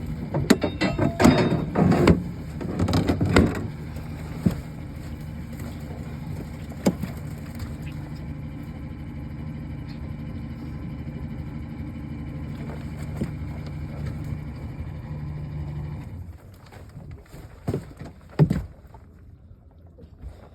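A boat motor running steadily, with loud knocks and clatter in the first few seconds and scattered knocks after. The motor cuts off about three-quarters of the way through, leaving only occasional knocks.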